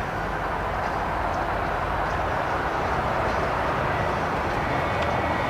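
Steady rush of freeway traffic, an even roar without breaks that swells slightly.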